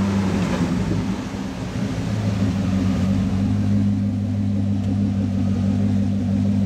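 Chevrolet Corvette C6's V8 engine running at low revs as the car rolls slowly, a steady deep rumble that dips briefly about a second and a half in.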